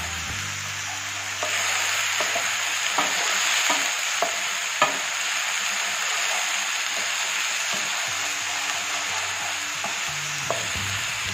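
Ginger, garlic and green chilli paste sizzling in hot mustard oil in a non-stick frying pan while being stirred with a wooden spatula, with a few light clicks of the spatula against the pan. The sizzle grows louder about a second and a half in. This is the masala being fried until it releases its oil.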